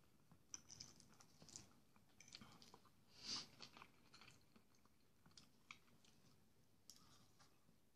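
Faint chewing and mouth sounds of a man eating porridge and fried sausage, with scattered soft clicks and one louder, brief sound about three seconds in.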